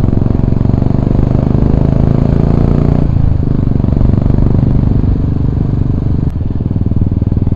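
Royal Enfield Bullet's single-cylinder engine running while the motorcycle is ridden, with a steady, fast exhaust beat.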